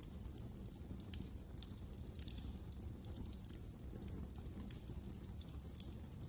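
Wood fire crackling in a fireplace: irregular small snaps and pops over a low steady rumble.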